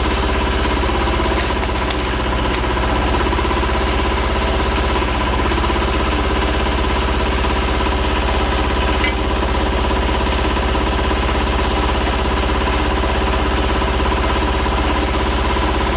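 Tractor diesel engine running steadily, driving the hydraulic system of a log splitter, with a constant thin whine above the engine.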